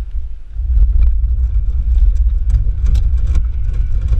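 A racing kart's engine running with a steady low rumble, and scattered sharp clicks over it.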